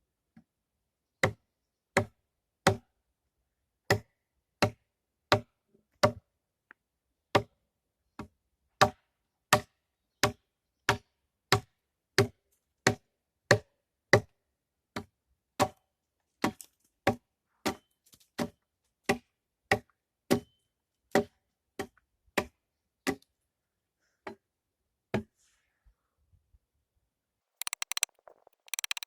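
Over thirty blows of a hand tool on wood in a steady, even rhythm, about one and a half a second, each a short knock with a hollow ring, stopping a few seconds before the end. Near the end a rapid, dense clatter starts.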